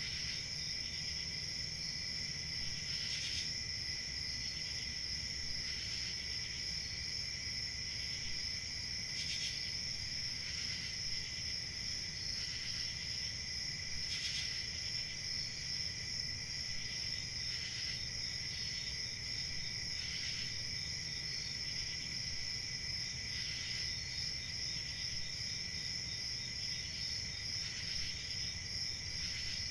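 Crickets chirping in a steady chorus, with a continuous high trill and a second, lower one running together, and a brief higher rasp every few seconds.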